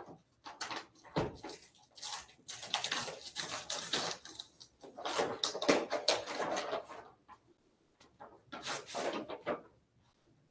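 Paper rustling and crinkling in irregular bouts as bid documents are pulled out and leafed through.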